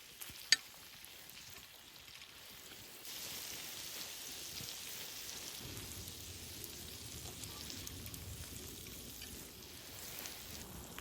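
Pork belly and sour kimchi sizzling in a small frying pan over a wood fire, the sizzle growing louder about three seconds in. A single sharp click near the start.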